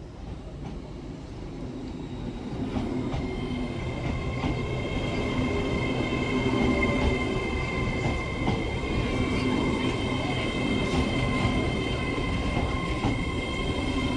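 LNER Class 801 Azuma electric train pulling into the platform, its running noise building as it arrives. From about three seconds in there is a steady high-pitched whine.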